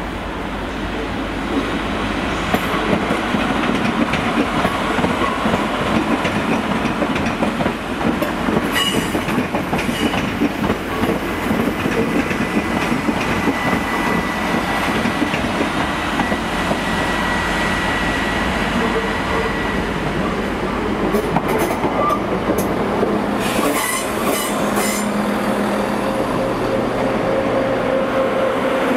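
Transport for Wales diesel passenger trains moving through a station. Wheels rumble steadily on the rails with a few sharp clicks. A thin high squeal runs through the middle, and a steady engine hum comes up in the last third.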